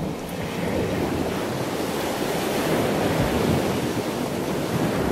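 Steady rushing water noise, an even wash like surf or moving seawater, with no distinct splashes.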